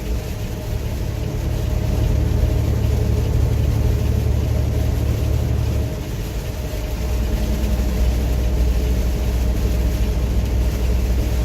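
Heavy truck driving on a wet highway in heavy rain, heard from inside the cab: a steady low engine drone under the hiss of tyres and rain on the road. The engine note drops and changes about six seconds in.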